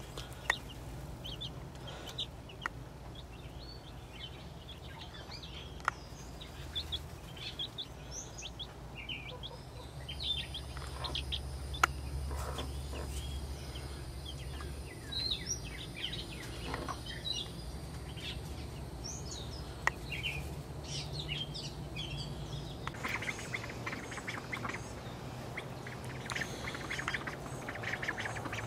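Baby chicks peeping in short, high chirps scattered throughout, with a few sharp clicks. In the last few seconds, denser, lower calls from ducks quacking join in.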